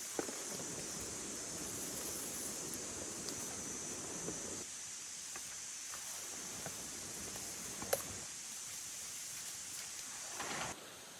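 Forest ambience: a steady high-pitched insect drone with rustling from movement through leaves and a sharp snap about eight seconds in. The drone cuts off abruptly near the end.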